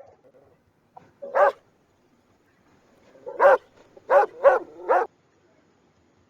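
Dog barking: one bark about a second in, then four quick barks a little later.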